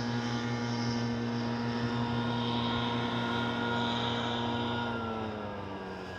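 An engine runs steadily with a pitched whine, then drops in pitch and fades slightly near the end.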